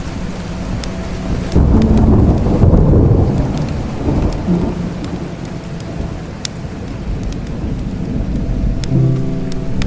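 Steady rain with a low rumble of thunder that starts about one and a half seconds in, swells and fades over a few seconds. Sharp crackles of a wood fire sound now and then.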